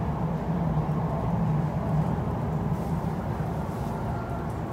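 MTR East Rail line R-train running, heard from inside the carriage: a steady rumble of wheels and running gear with a low hum.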